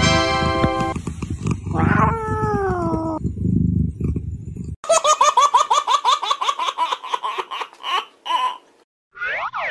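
Edited meme soundtrack over a cat's low purr that cuts off a little under five seconds in. It opens with a bright ringing chime lasting about a second, then a meow falling in pitch. Then come about three and a half seconds of rapid, pulsing laughter-like cries, and a short swooping sound effect near the end.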